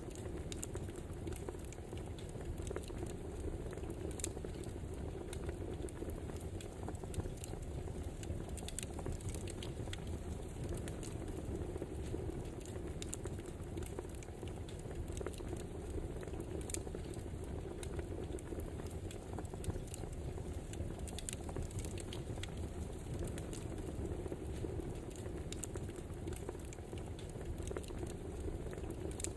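Wood fire crackling steadily, with frequent small irregular pops and snaps over a low, even rush.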